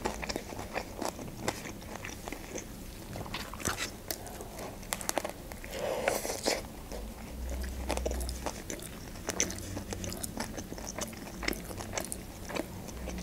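Close-up eating of a shawarma in lavash with fresh spinach: chewing with many small wet clicks and crunches, and a fuller bite into the wrap about six seconds in.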